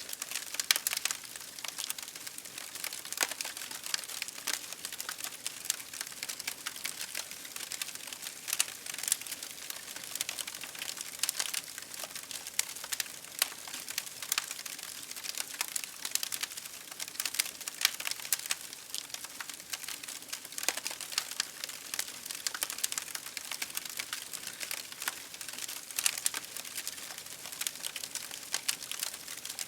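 Campfire crackling: irregular sharp pops and snaps of burning wood over a steady hiss, with no rhythm.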